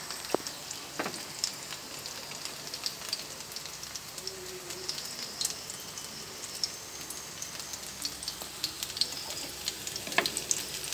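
Battered shrimp fritters shallow-frying in hot oil in a pan: a steady sizzle with many small crackles and pops. There are a few louder clicks near the start and about ten seconds in.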